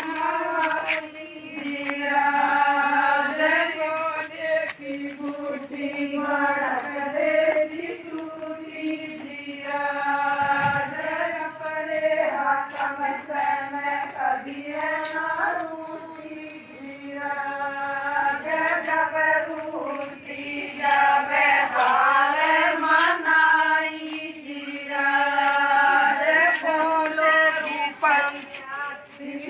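A group of women singing a traditional folk wedding song in unison, unaccompanied, in repeated phrases with short breaths between them.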